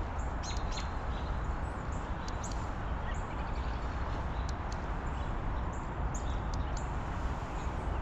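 Small birds chirping sporadically, short high calls scattered through, over a steady low outdoor rumble.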